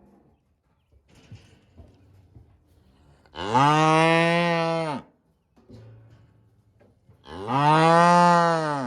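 Cattle mooing: two long, loud moos about four seconds apart, each held for about a second and a half at a steady pitch.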